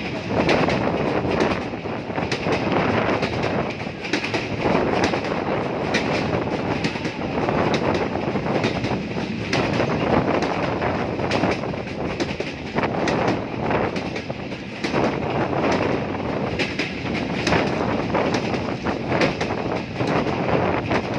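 A moving train running on the rails, a continuous noise that swells and eases every second or two.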